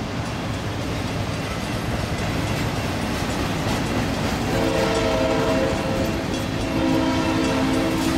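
Freight cars rolling past with a steady rumble and wheel clatter on the rails. About four and a half seconds in, a train's air horn starts sounding in long blasts with short breaks.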